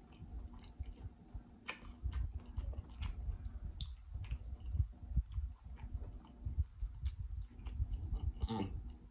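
Close-miked chewing of a mouthful of food, with irregular low mouth noise and scattered sharp mouth clicks.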